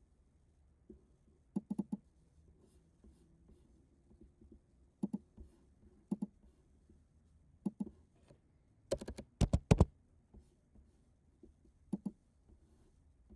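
Computer clicks, mouse or keyboard, scattered in pairs and short runs, with a quick burst of louder clicks about nine seconds in.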